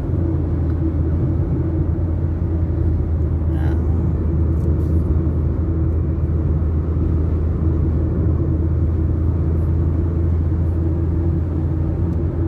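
Car driving at steady speed, heard from inside the cabin: an even low engine and road rumble.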